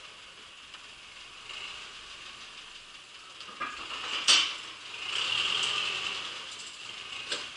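Metal mechanism rattling and clicking, with a loud clank about four seconds in and a rasping scrape after it.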